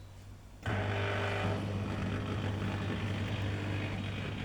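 Dishwasher starting up less than a second in, its motor and pump then running with a steady hum over the sound of circulating water.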